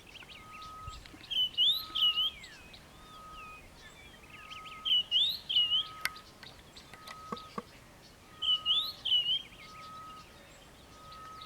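Birds singing in a morning chorus, with a grey-headed bushshrike among the singers. A steady series of short, level whistled notes repeats about once a second. Three times, a louder burst of quick rising-and-falling whistled phrases breaks in over them.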